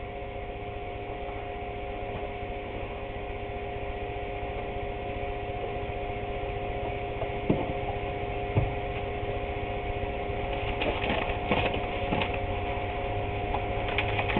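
A steady hum with a few fixed tones, with a couple of knocks midway, light clicking and handling noises near the end, and a sharp knock at the very end.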